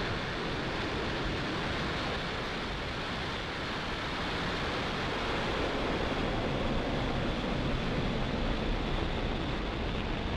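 Falcon 9 rocket's nine Merlin engines firing at liftoff: a steady, dense rush of engine noise, growing a little louder in the second half.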